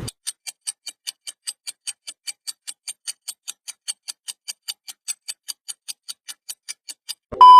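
Clock-ticking sound effect, quick sharp ticks about five a second over dead silence, cut off near the end by a short loud steady beep.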